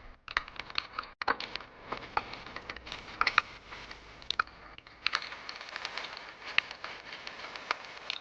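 Raindrops pelting the camera's microphone during a ride in heavy rain: irregular sharp ticks and pops over a steady hiss of rain.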